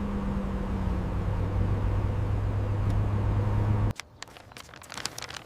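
A car engine running with a steady low hum that cuts off abruptly about four seconds in, followed by faint scattered clicks.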